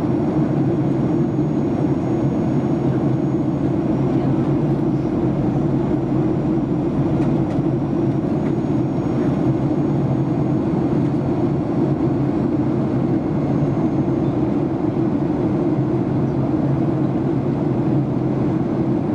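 Steady cabin noise of a jet airliner in descent: an even, unbroken rumble of engines and airflow heard from inside the passenger cabin.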